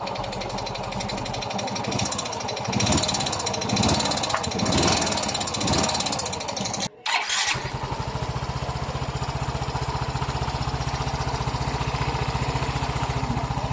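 Yamaha Mio i 125 single-cylinder scooter engine running unevenly with a ticking and knocking noise from the cylinder head, a sound likened to piston slap and traced to a worn camshaft, cam bearings and rocker arms. About seven seconds in it cuts off and the same engine, repaired, idles with a steady, even beat.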